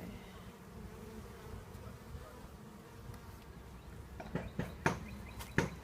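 Honeybees buzzing steadily around an open hive. Several sharp clicks or knocks come in quick succession near the end.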